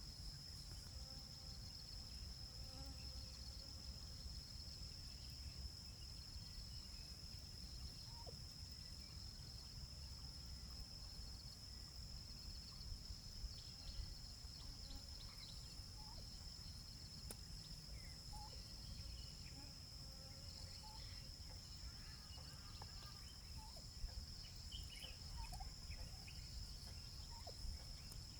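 A steady, high-pitched insect chorus, with scattered faint turkey gobbles and other poultry calls that come more often in the second half.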